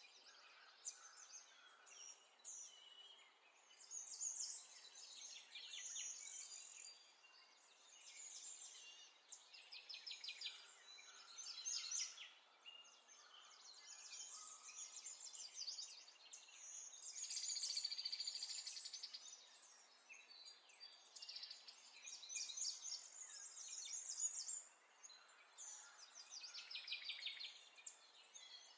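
Birds singing: quick chirping trills and short whistled notes, phrase after phrase, faint throughout.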